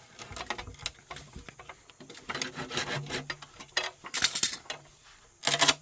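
Wood being worked with a hand tool: a series of irregular scraping, rasping strokes, two of them longer and louder near the end.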